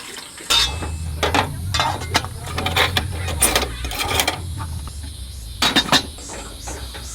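Irregular clicks and knocks of camp cookware and coffee gear being handled, over a low steady hum that starts about half a second in.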